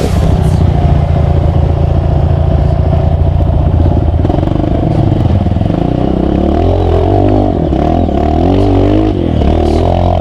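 Off-road motorcycle engine running under load, steady at first, then revving up and down repeatedly about halfway through as the throttle is worked.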